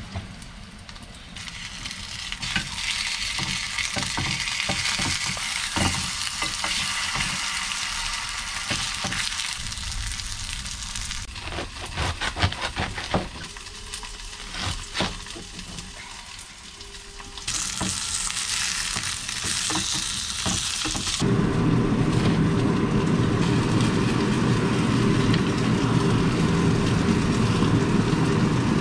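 Food sizzling as it cooks, broken about halfway through by a run of utensil clicks and knocks. In the last several seconds a louder steady rush comes in, like water running from a tap.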